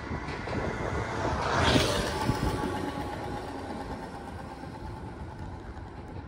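Hokuriku Railroad 8000 series electric train running away into the distance, its rumble fading steadily. A brief swell of rushing hiss comes about a second and a half in.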